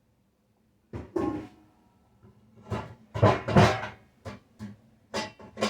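Kitchen cupboard doors and cookware knocking and clattering in several bursts as someone rummages for a pot lid.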